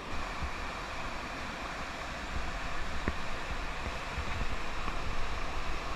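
Steady rush of river whitewater, with low rumbling from wind or water hitting the microphone and a single click about three seconds in.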